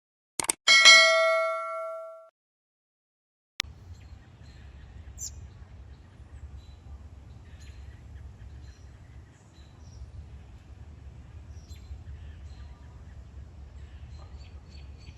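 A single bell-like ding rings out with a few overtones and fades over about a second and a half. After a second of silence, outdoor ambience starts: a steady low rumble with faint bird chirps.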